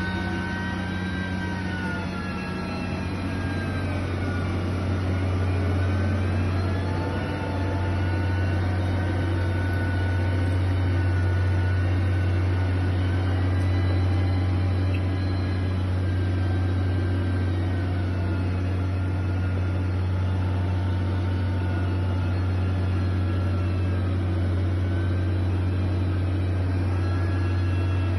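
Heavy machine's engine running steadily: a low drone with a higher whine that wavers slowly in pitch.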